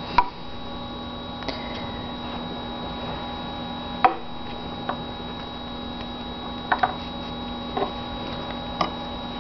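Scissors snipping threads: a few short, sharp clicks at irregular intervals, over a steady electrical hum.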